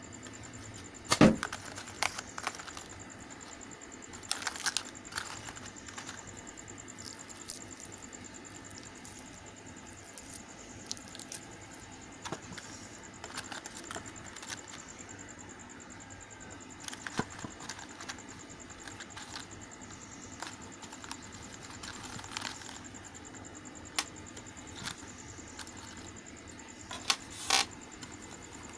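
Bars of Lux soap and their wrappers being handled: scattered light clicks, taps and crinkles, with a louder knock about a second in.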